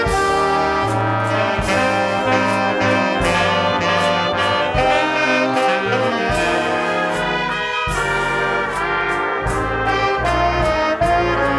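A band's horn section of trumpets, trombones and saxophones playing a jazz standard together over a steady beat.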